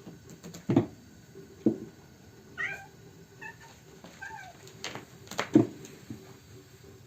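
A domestic cat meowing, a few short calls in the middle, between several dull thumps, the loudest of them near the end.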